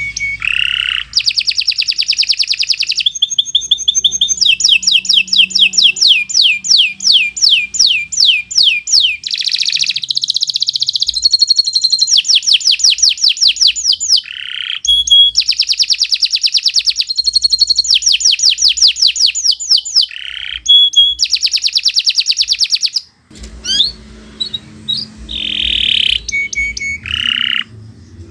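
Domestic canary singing a long, unbroken song of rapid trills and fast repeated high, sweeping notes, with brief breaks. About two-thirds of the way through it pauses, then goes on in shorter separate chirps and phrases.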